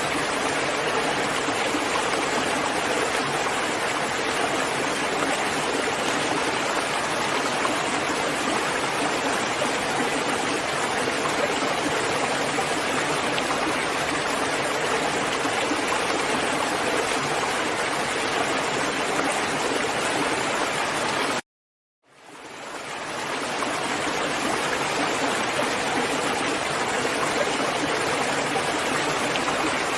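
Steady rain, an even hiss of falling water. About two-thirds of the way through, it cuts out to silence for about half a second, then fades back in over a second or two.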